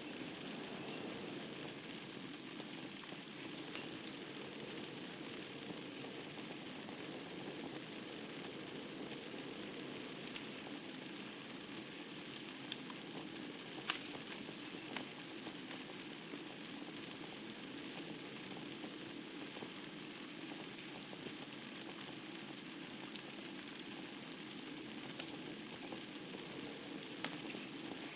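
Wood fire burning in a fireplace: a steady soft hiss with scattered sharp crackles and pops at irregular intervals, the loudest pop about halfway through.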